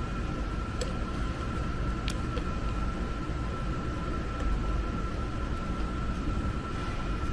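Steady low rumbling background noise with a thin, constant high hum and a few faint ticks.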